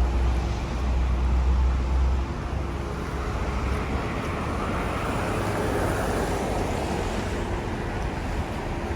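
City street traffic noise. A deep low rumble drops away about two seconds in, leaving a steady hiss of passing traffic that swells briefly around the middle.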